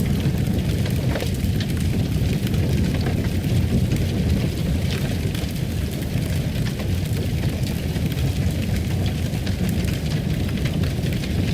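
Wood fire crackling in a fireplace: a steady low rumble of flames with scattered small sharp pops and crackles.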